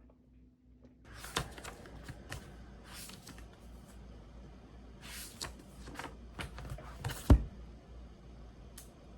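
Small objects being handled at close range: rustling and irregular light clicks, with one louder knock about seven seconds in.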